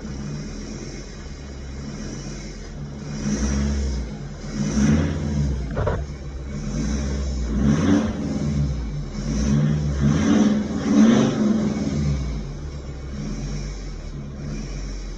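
Volvo S60 D5's five-cylinder turbodiesel running and revved in several short blips, with a knock that has persisted since a manual gearbox swap even though the injectors and cylinder head checked out fine. A short sharp click comes just before six seconds in.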